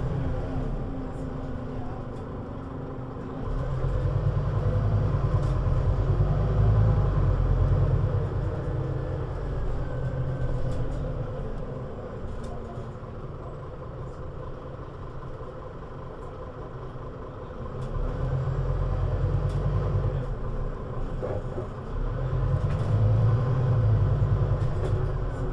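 Scania CN320UA bus's diesel engine pulling away and accelerating, easing off, then pulling hard again twice, with a whine that rises and falls with speed.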